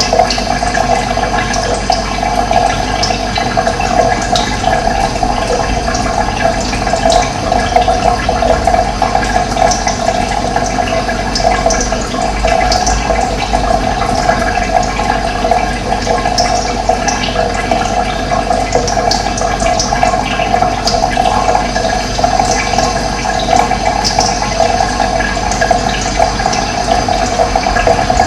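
Steady rush of running water, with scattered short, high bird chirps over it.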